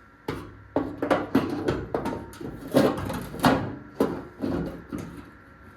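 A series of irregular metal knocks and clunks as a hood hinge is handled and fitted against the car's body.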